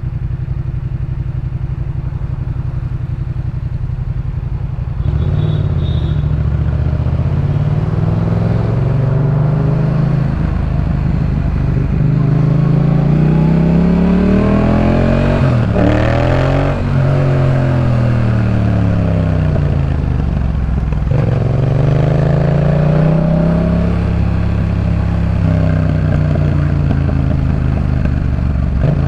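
Yamaha MT-07's 689 cc parallel-twin engine through a Jeskap K4 full aftermarket exhaust. It runs at a steady low note for about five seconds, then gets louder and climbs in pitch as the bike accelerates. It drops back about halfway through and climbs again near the end.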